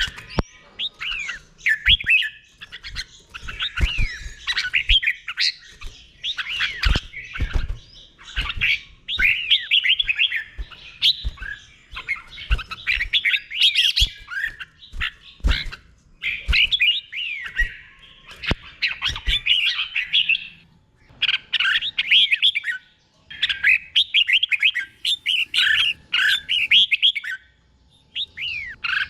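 Red-whiskered bulbul singing: phrase after phrase of quick, bubbly whistled notes sliding up and down, broken by short pauses. Sharp low knocks sound among the phrases through the first two-thirds.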